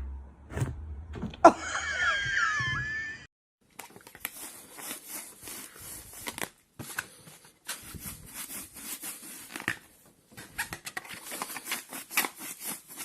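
A low hum with a click and a short high cry wavering up and down in pitch, then, after a short break, several seconds of crackling and rustling.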